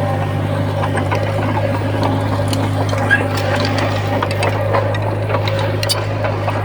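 Komatsu D20P bulldozer's diesel engine running steadily, with many irregular clicks and knocks over its steady hum.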